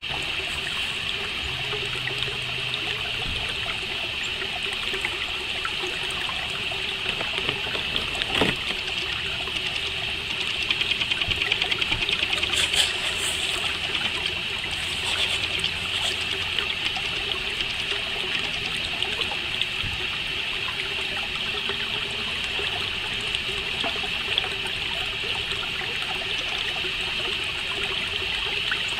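Crickets chirping in a steady, high chorus, louder and pulsing for a few seconds near the middle. A single sharp click about eight seconds in.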